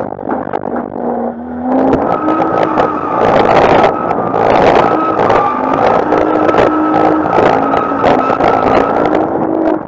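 Nissan Skyline R34's RB25 straight-six held on the rev limiter while drifting, its steady note chopped by rapid limiter cuts, with tyre squeal. Quieter for about the first two seconds, then loud.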